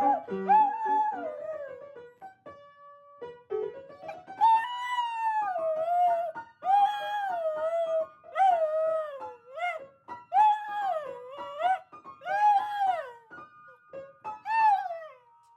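A dog howling along to piano music: a run of drawn-out howls, each rising and then falling in pitch, about one every two seconds, over steady piano notes.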